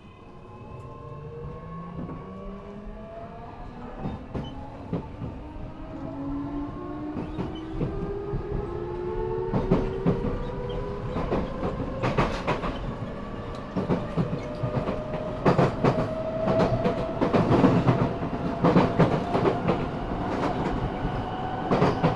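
Eidan (Tokyo Metro) 6000 series car's high-pitched Mitsubishi three-level VVVF inverter, one taken from a 7000 series, whining in several tones that climb steadily in pitch as the train pulls away and accelerates. Wheels clatter over rail joints more and more often, and the sound grows louder, heard from the car floor.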